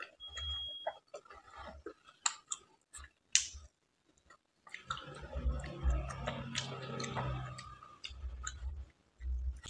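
Close-miked chewing and wet mouth sounds of someone eating soft, syrupy rasmalai, with scattered lip smacks and clicks. The chewing grows busier from about five seconds in.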